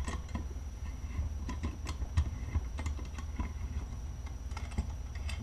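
Scattered light metal clicks and taps as a C-clamp valve-spring compressor is backed off a KLX400 cylinder head, releasing the valve spring, over a low steady hum.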